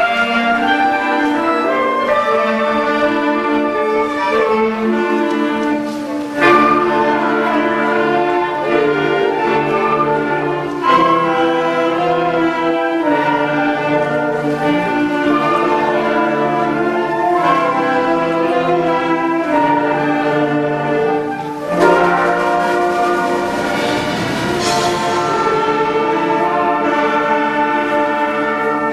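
School concert band playing a piece in sustained, changing chords, with sharp accented entries about six, eleven and twenty-two seconds in.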